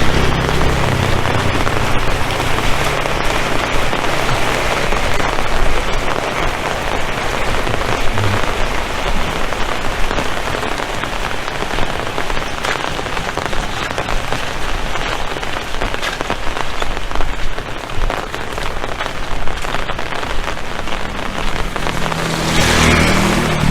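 Heavy rain falling steadily, a dense patter of drops on surfaces. A low hum sits under it for the first few seconds and swells up again near the end.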